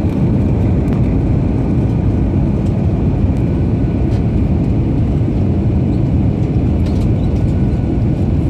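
Steady cabin roar of an Airbus A321-231 airliner in flight on approach, heard from a window seat: engine and airflow noise, mostly deep rumble, with a few faint steady tones above it.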